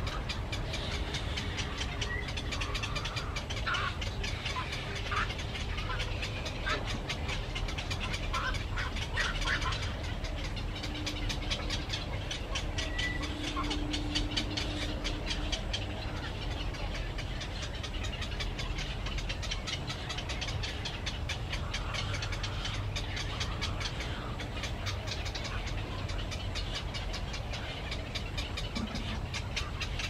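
A few short bird chirps, mostly in the first third, over a steady low rumble and hiss of outdoor background noise.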